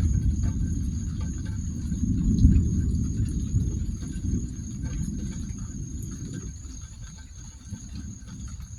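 A low rumble that slowly fades away over several seconds, over a steady high pulsing trill of crickets.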